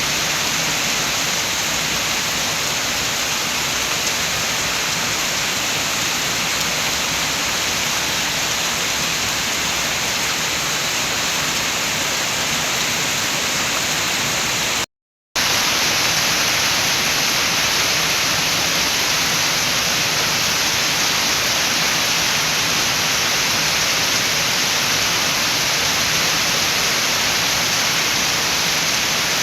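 Steady rain with wind, an even hiss with no separate drops standing out. About halfway through the sound cuts out completely for around half a second, then comes back unchanged.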